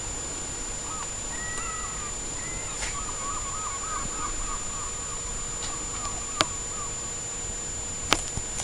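Faint bird calls, a run of short wavering notes, over a steady hiss, with a few sharp clicks near the end.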